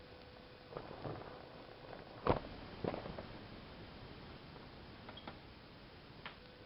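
A few scattered clicks and knocks, the loudest a little over two seconds in, over a faint steady hum.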